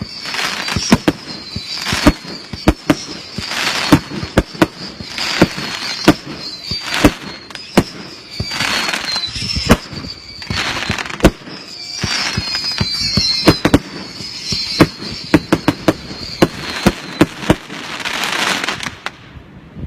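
Consumer fireworks barrage going off: a rapid, irregular string of sharp bangs and crackling reports, mixed with hissing launches and high wavering whistles from whistling shots. It stops abruptly about a second before the end.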